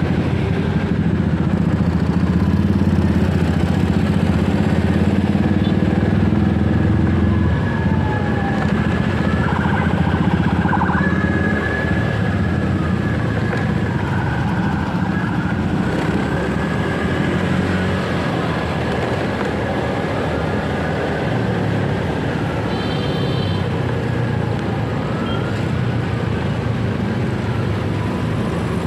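Motorcycle engine running steadily with road and wind noise while riding through city traffic, faint rising and falling tones from the traffic around it. A short high beep sounds about three-quarters of the way through.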